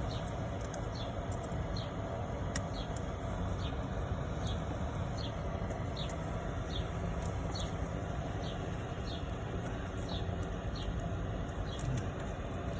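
A small bird chirping over and over: short falling chirps, a little more than one a second, over a steady low background rumble with a few faint clicks.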